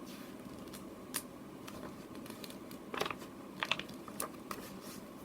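A few short clicks and light rustles of paper handling, as a picture book's page is turned, over a faint steady room hiss.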